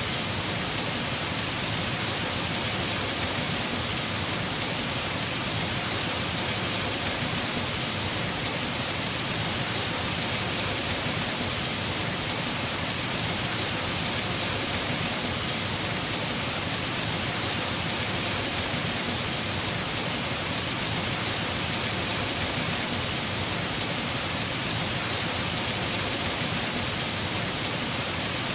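Heavy rain falling on a house roof, a steady, even hiss without a break.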